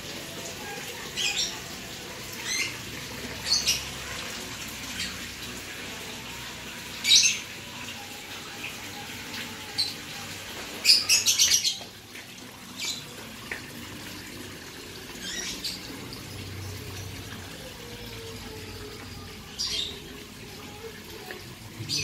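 Small bird chirping: short, high chirps spaced a second or a few apart, with a quick run of about five about eleven seconds in, over steady background noise.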